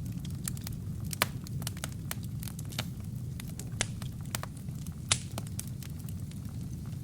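Wood fire crackling in a fireplace: a steady low rumble of the flames under irregular sharp snaps and pops from the burning logs, with three louder pops, about a second in, near the middle and about five seconds in.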